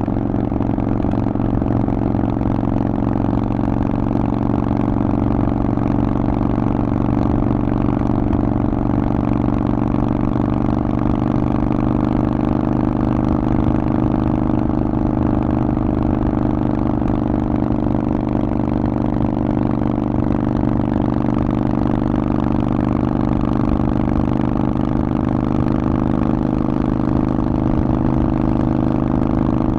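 Harley-Davidson Forty-Eight's 1200 cc air-cooled V-twin running through a Vance & Hines aftermarket exhaust, holding a steady, nearly unchanging engine speed.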